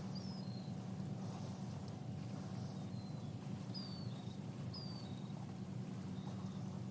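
Bird calling outdoors: short, high, falling whistled notes, about six of them, over a steady low rumble of outdoor background noise.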